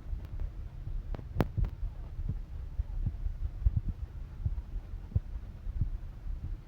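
Low, steady rumble in the cabin of a Boeing 787-10 airliner, with irregular dull thumps and a few sharp clicks or rattles, the sharpest about a second and a half in.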